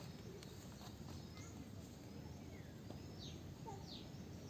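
Faint bird chirps: a few short, high calls that sweep downward, mostly about three seconds in, over low steady background noise.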